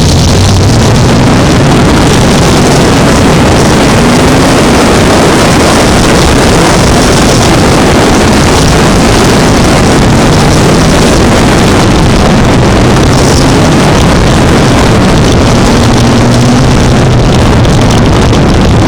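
Race-modified sport trucks running practice laps on a short oval track, their engines at high throttle in a dense, very loud roar, with engine notes rising and falling as trucks go by.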